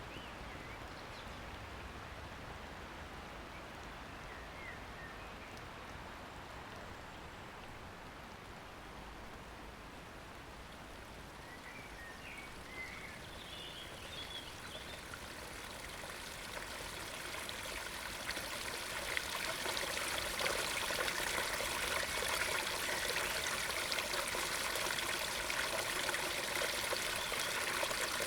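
A few faint, short bird chirps over quiet damp outdoor ambience. Then the rushing of a stream flowing into a pond swells in over a few seconds and is loud and steady from about twenty seconds in.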